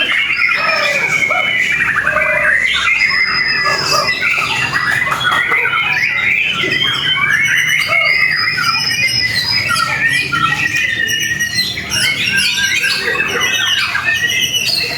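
White-rumped shama (murai batu) singing a long, rapid, varied song of sharp whistles, trills and gliding notes without a break.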